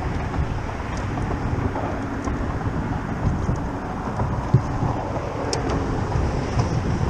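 Wind buffeting the microphone: a steady, irregular low rumble, with a few faint ticks.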